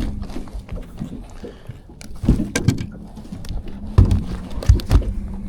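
A few dull knocks and thumps on a boat, the loudest about four seconds in, over a steady low hum.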